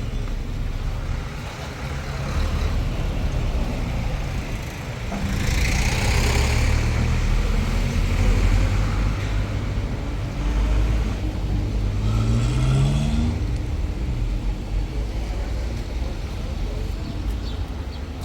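Motor vehicle running on the road, a steady low engine and road rumble, with a louder rushing sound about six seconds in and the engine note rising around twelve seconds in as it speeds up.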